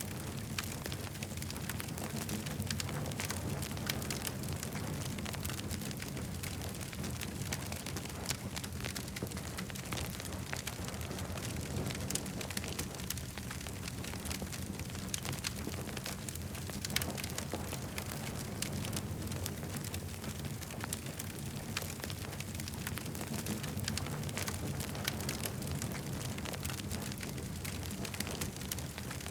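Campfire burning, with frequent small sharp crackles and pops over a steady low rumble.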